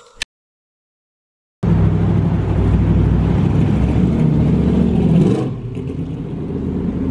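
About a second and a half of silence, then a Shelby Cobra-style roadster with side exhaust pipes passes at low revs with a deep engine rumble. The rumble eases a little about five and a half seconds in.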